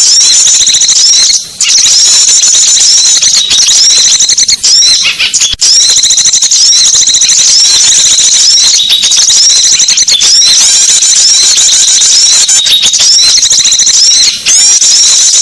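Dense, rapid high-pitched chirping and twittering of small songbirds, played loud and nearly nonstop as a bird-lure call, with brief breaks about a second and a half in, around five and a half seconds in, and near the end.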